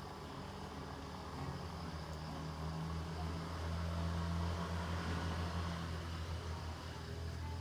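A passing engine's low, steady hum, growing louder to a peak about four to five seconds in and fading away near the end.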